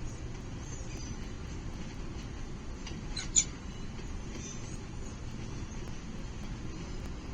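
Falcon chicks giving a brief burst of two or three high squeaky calls about three seconds in, over a steady low rumble.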